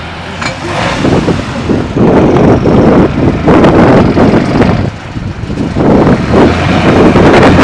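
Tatra 148 truck's diesel engine working hard under load, growing loud about a second in and then surging and dipping unevenly.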